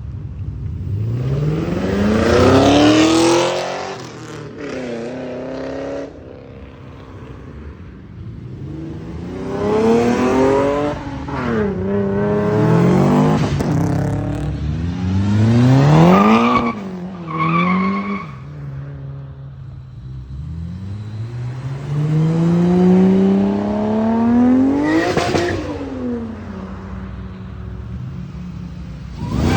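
Cars accelerating hard away one after another, each engine revving up in rising sweeps that break off at gear changes. Near the end one car pulls long and hard, then passes and its pitch drops away.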